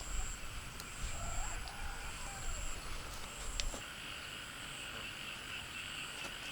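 Rural outdoor ambience: a steady high-pitched chorus of calling creatures. A low rumble and a few faint clicks fall in the first half.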